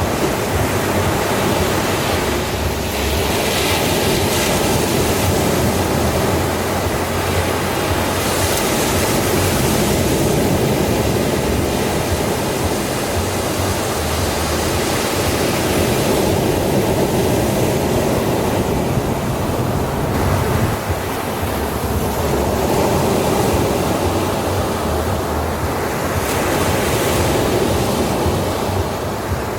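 Ocean waves breaking on a sandy shore: a continuous wash of surf that swells as each wave breaks, every several seconds.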